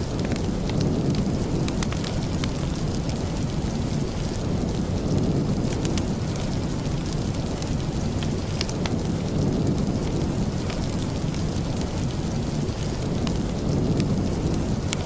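Steady heavy rain with a deep, low rumble under it, sprinkled with faint sharp ticks.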